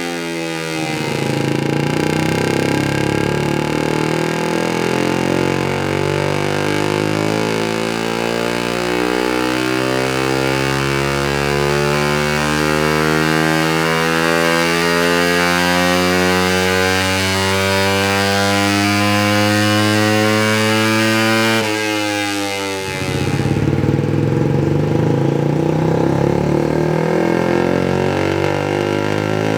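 Suzuki GSX-R150's single-cylinder four-stroke engine through a Yoshimura R77 full-system exhaust, making a long dyno pull: the revs climb steadily for about twenty seconds, then the throttle is shut and the revs drop sharply, and the engine runs on at lower, uneven revs.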